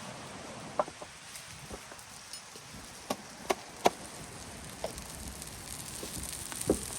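Open wood fire crackling: half a dozen sharp, irregular pops over a steady hiss.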